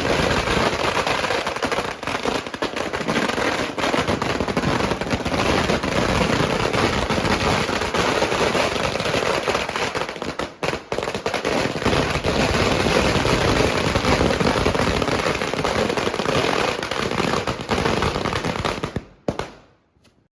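A Mother India 10,000-wala firecracker string going off as a dense, unbroken rattle of small bangs, which thins out and stops about nineteen seconds in as the string burns out.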